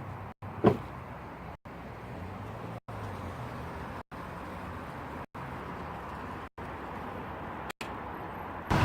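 Low steady hum of a road vehicle's engine, cut off abruptly by short gaps about every second and a quarter. A brief, loud pitched sound comes about a second in, and the noise jumps louder just at the end.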